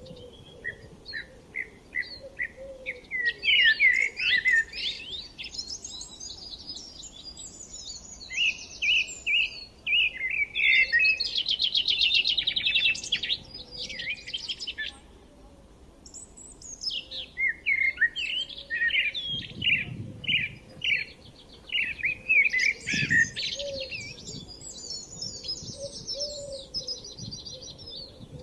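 Several songbirds singing and chirping, with rapid trills and short whistled phrases overlapping, pausing briefly now and then.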